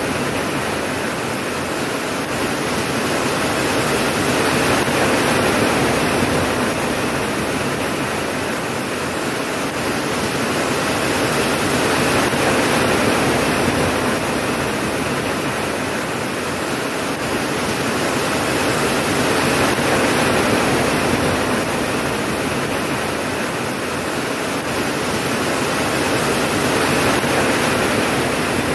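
Steady heavy rain falling, a dense even hiss that swells and eases slowly about every seven to eight seconds.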